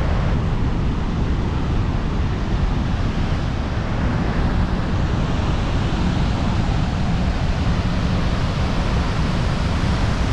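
Steady roar of Victoria Falls, the Zambezi's water crashing into the gorge, with its spray coming down like heavy rain.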